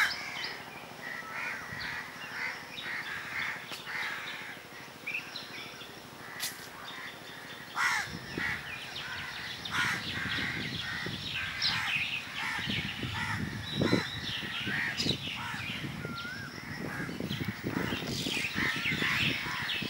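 Birds calling: many short chirps and calls overlapping, with a low rumble coming in underneath from about halfway through.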